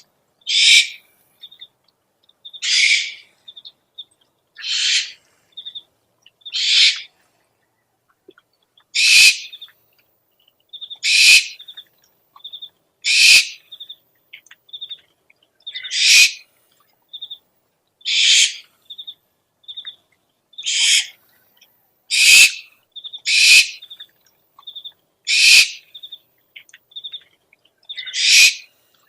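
Owl calling: a repeated harsh, raspy screech about every two seconds, with short high peeping notes in quick little groups between the screeches.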